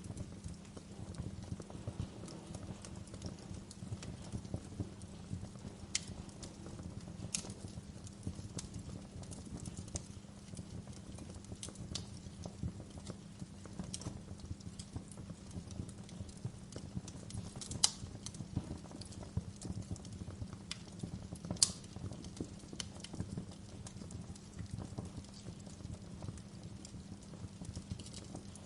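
Wood fire crackling in a fireplace: dense small irregular crackles over a low steady rumble, with a few sharp louder pops, the loudest about 18 and 21 seconds in.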